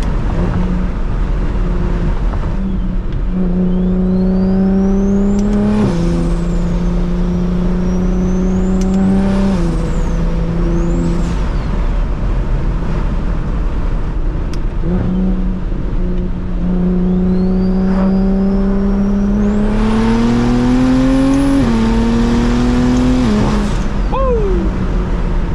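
Straight-piped BMW 335is N54 3.0-litre inline-six with a single turbo, accelerating through the gears. The engine note climbs through each pull and drops sharply at every shift, while a high turbo whistle rises with it. A longer, louder pull comes near the end before the engine eases off.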